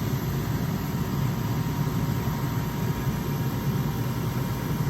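Gas furnace running: a steady low hum and rush from its burners and induced draft fan, with a faint steady whine above it.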